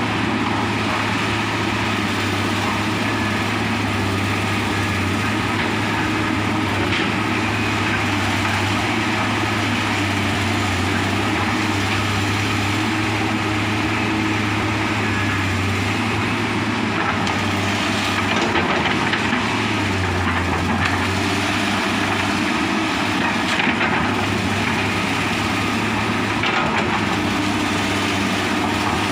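Komatsu hydraulic excavator's diesel engine running steadily under load, with a few sharp cracks through it.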